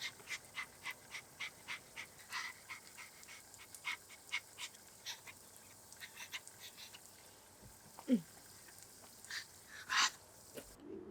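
A pet animal gives one short whine that falls in pitch, about eight seconds in, after a run of quick light clicks, roughly three or four a second. A single sharper click or knock comes near the end.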